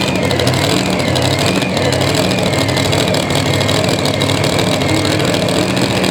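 Competition pulling vehicle's engine running hard under load as it drags a weight sled down the track, its pitch wavering slightly up and down.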